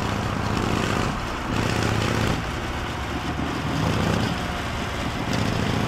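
Harley-Davidson Knucklehead V-twin engine running as the motorcycle rides along, its exhaust note swelling and easing off about every second or so.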